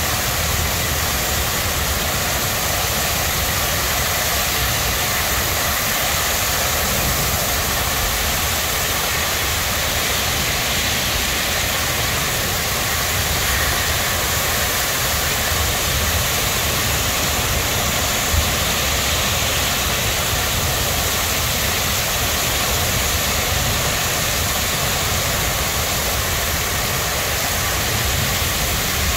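Torrential rain pouring down in a steady, loud rush, with a low rumble underneath.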